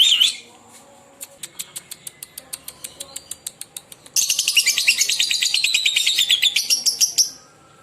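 Lovebird calling: a short shrill call, then a run of sharp clicks about six a second. About four seconds in it breaks into its long, rapid, high-pitched chattering trill, the 'ngekek', which lasts about three seconds.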